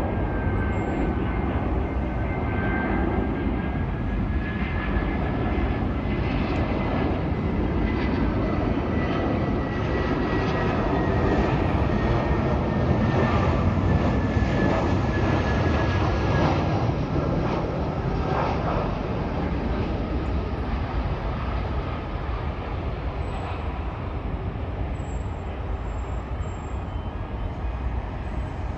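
Jet airliner's engines as it passes, a broad rushing noise with a steady high whine that drifts slowly down in pitch, growing loudest about halfway through and then fading.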